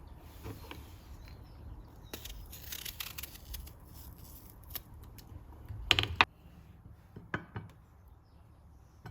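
Kitchen handling sounds: scattered light clicks and knocks of utensils and dishes being handled, the loudest cluster about six seconds in.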